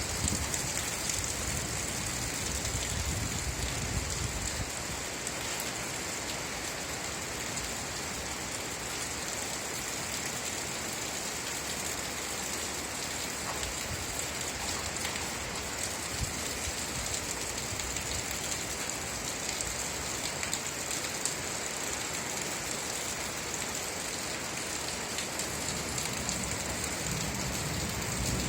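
Steady rain falling and pattering on surfaces: an even hiss with fine drop ticks. A low rumble under it fades out after the first few seconds and comes back faintly near the end.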